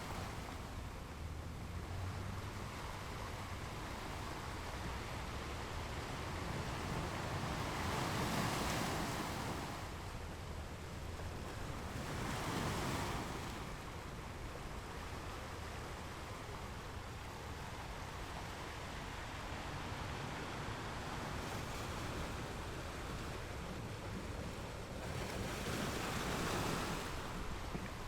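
Ocean waves breaking on rocks: a steady low rumble of surf with three louder breaks, about eight, twelve and twenty-six seconds in.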